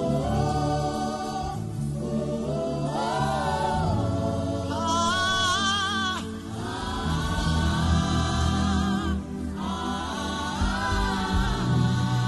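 Wordless worship humming and vocalising: one voice holding long, wavering notes that glide up and down, over steady low sustained backing tones.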